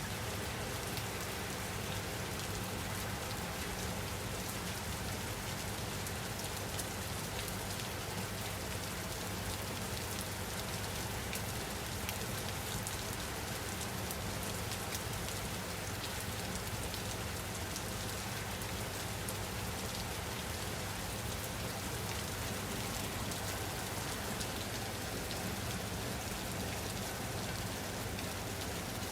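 Steady rainfall, dense drops pattering on a surface, with a constant low hum beneath and no letup.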